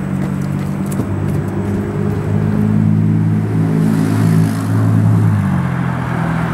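A long train of passenger coaches rolls past. A low hum steps up and down in pitch a few times and is loudest midway, and there is a single sharp click about a second in.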